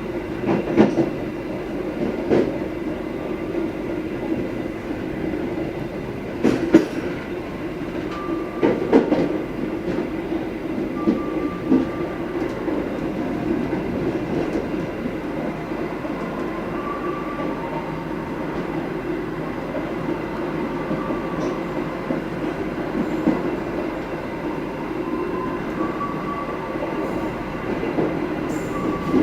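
Passenger train running on the rails with a steady rumble, broken by a few sharp knocks, the loudest about six and a half seconds in. Faint wheel squeals come and go.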